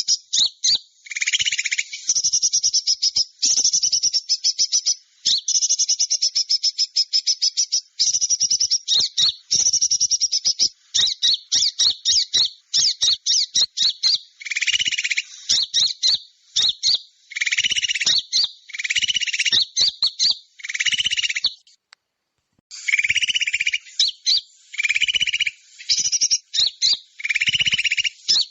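Bird-trapping lure recording of small birds' calls: rapid, high-pitched chattering in repeated bursts, broken by a short gap about 22 seconds in.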